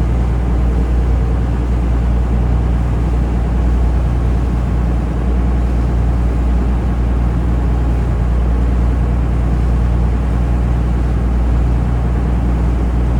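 Taxi boat's engine running steadily under way, a loud, even low drone.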